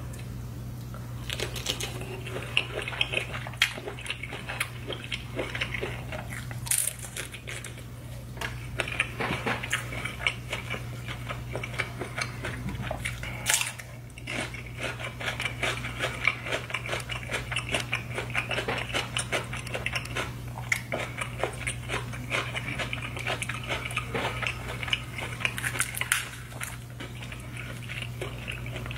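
Close-miked eating sounds: chewing and biting of sauce-covered seafood-boil crab, shrimp and lobster, with many small clicks. There is a sharp crunch about halfway through, from a bite of fresh cucumber, and a steady low hum underneath.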